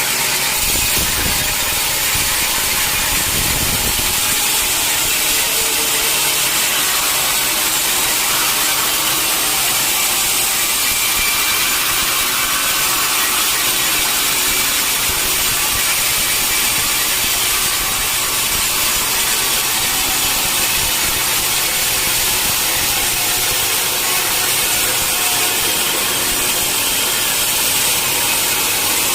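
Sawmill saw cutting through a mahogany log: a steady, dense hiss of blade in wood over running machinery. Low rumbles come about a second in and again around three seconds.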